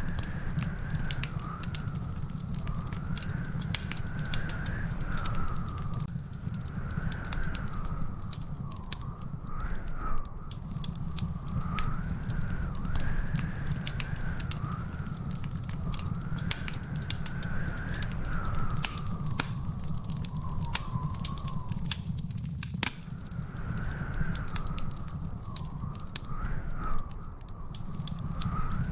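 Wood fire crackling in a fireplace, with many sharp pops over a low rumble. A continuous wavering whistle runs underneath.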